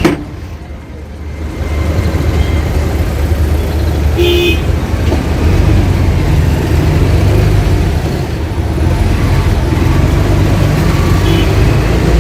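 Road traffic noise with a steady low rumble, and a brief car horn toot about four seconds in.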